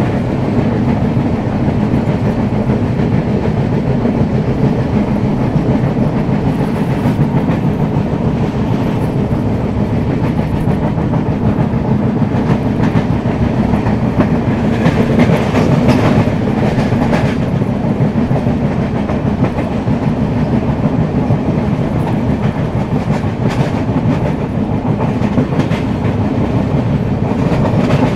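Passenger train running on the line, heard from on board: a steady rumble of wheels on the rails with clickety-clack, and a few sharper clacks partway through.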